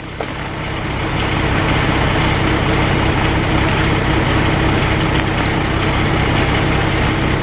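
Semi truck's diesel engine idling steadily, with an even low pulsing.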